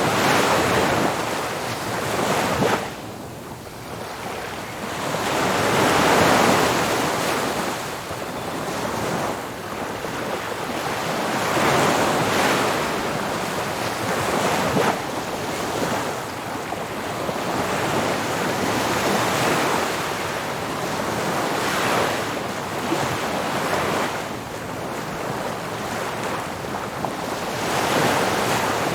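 Ocean surf breaking on a beach, the waves washing in and drawing back as swells of noise every few seconds, with wind on the microphone.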